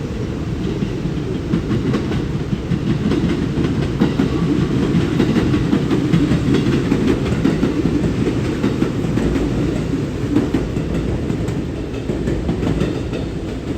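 Train moving along the platform track, a steady low rumble with wheels clicking over the rail joints, swelling a little in the middle.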